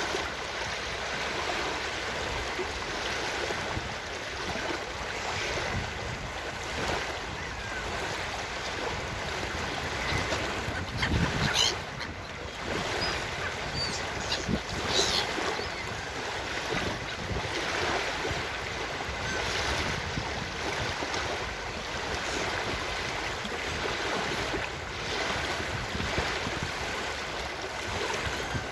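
Ocean surf washing steadily on a beach, with a couple of brief sharper sounds about twelve and fifteen seconds in.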